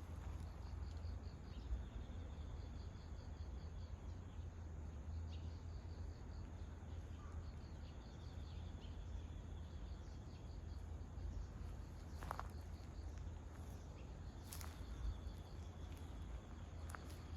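Faint outdoor ambience: insects chirping in faint pulsing high trills over a steady low rumble, with two sharp clicks in the second half.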